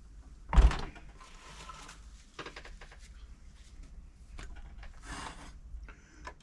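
A sharp knock about half a second in, then light clicks and brief rubbing: hands and a tool working on the Silver/Pfaff 1139 sewing machine's mechanism while hardened, sticky grease is cleaned off.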